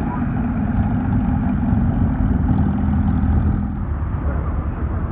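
Porsche 718 sports car engine running at low speed as the car rolls past, a steady low hum that eases off a little before four seconds in.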